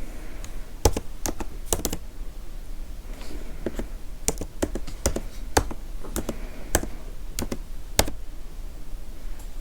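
Typing on a computer keyboard: irregular clicking keystrokes, some struck harder than others, with a faint low hum beneath.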